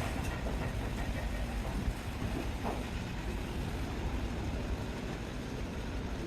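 Steady low rumble of heavy workshop machinery, with a few faint knocks, the loudest about two and a half seconds in.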